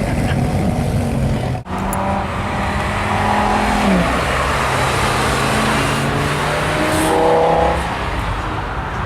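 Lamborghini Gallardo LP560-4 Spyder's V10 engine and exhaust while driving, over steady road and wind rush. The engine note drops sharply about four seconds in, then climbs and gets louder shortly before the end as the car accelerates.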